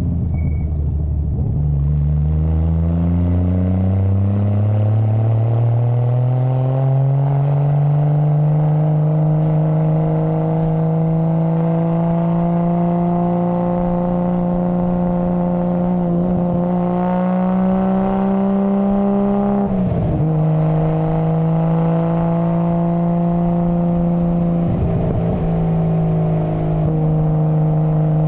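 Nissan Skyline GT-R R33's RB26 twin-turbo straight-six running under way. Its pitch climbs steadily from low revs over the first seven seconds or so, then holds steady, with brief dips about twenty and twenty-five seconds in.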